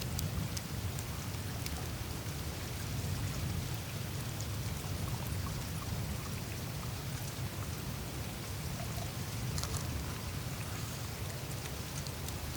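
Meltwater on the surface of the Greenland ice sheet trickling and flowing through the ice in small streams, over a steady low rumble, with scattered faint ticks and crackles from the melting ice.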